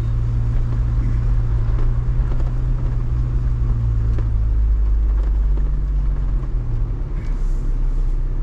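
Jeep driving with a steady low rumble of engine and road noise.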